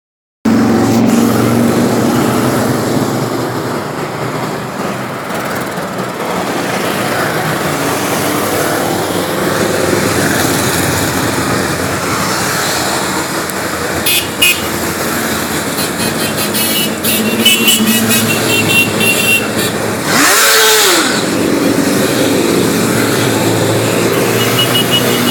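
Motorcycle engines running, with a brief rising-and-falling burst about twenty seconds in.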